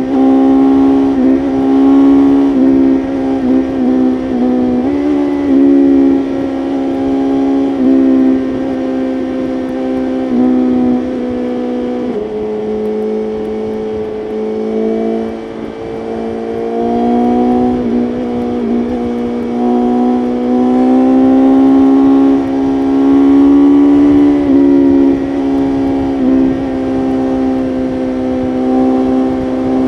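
BMW S1000RR's inline-four engine running hard at highway speed. Its pitch dips briefly several times in the first few seconds, drops about twelve seconds in, then climbs steadily over the next ten seconds as the bike accelerates again.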